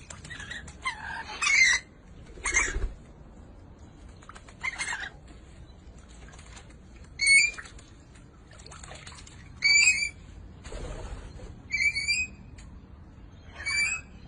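A pet bird calling. It gives a few harsh, raspy squawks in the first five seconds, then four short chirping calls about two seconds apart.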